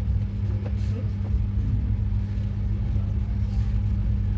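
Steady low rumble and hum of a train.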